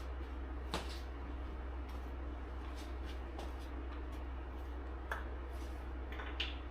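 Three small sharp clicks of handling, about a second in, about five seconds in, and near the end, over a steady low hum.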